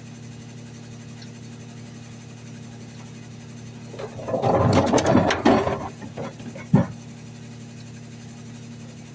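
Garbage truck engine idling steadily, with a loud, rough burst of noise full of sharp clicks about four seconds in, lasting around two seconds, and a single sharp knock shortly after.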